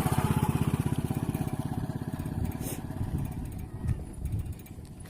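A small engine running with a fast, even putter, loudest at the start and fading away over the first few seconds.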